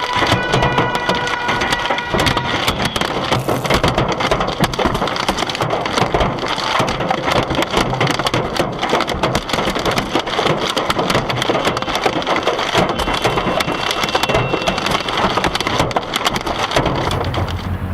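Hailstones pelting a car, a loud, dense, rapid clatter of hard hits on the body and glass that stops near the end. A brief steady tone sounds in the first couple of seconds.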